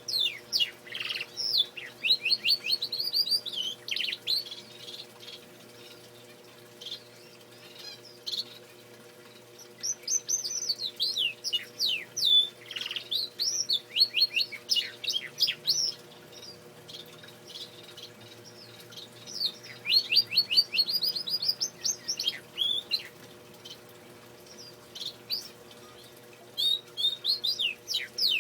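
Male domestic canary singing: bouts of fast trills and rapidly repeated sweeping notes, broken by pauses of a few seconds, three times.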